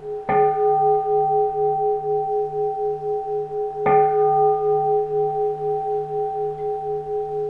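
Keisu, a Zen temple bowl bell, struck twice about three and a half seconds apart, each strike ringing on in long, slowly pulsing tones.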